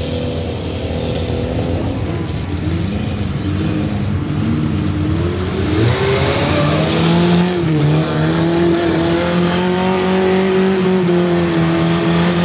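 Suzuki Jimny 4x4's engine revving as it drives into a mud pit: the revs climb about halfway through and are then held high while it pushes through the mud.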